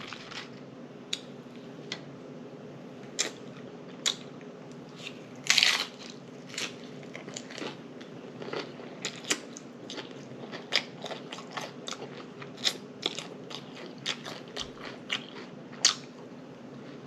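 Close-miked eating sounds: chewing with irregular wet mouth clicks and lip smacks, and a louder crunchy bite about five and a half seconds in.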